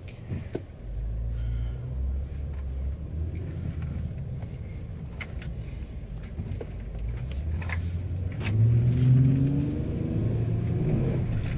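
Truck engine running and pulling away, its pitch rising as it accelerates from about eight seconds in, which is the loudest part.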